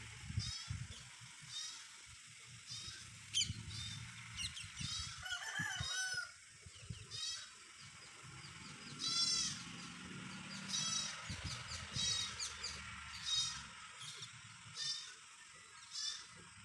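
Birds chirping in repeated short, high calls, several of them loud, with one lower, wavering call about five and a half seconds in.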